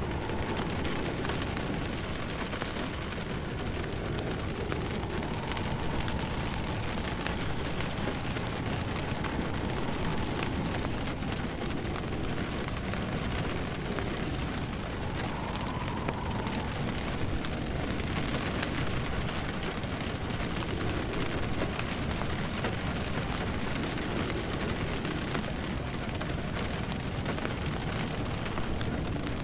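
Steady rain falling on a surface, mixed with the crackle of a wood fire in a fireplace, with faint, slowly rising and falling wind.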